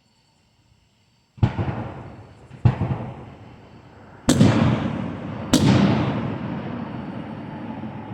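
Fireworks shells bursting close by: four sharp bangs over about four seconds, the last two the loudest, each followed by a long rumbling echo that fades slowly. Faint insect chirring can be heard before the first bang.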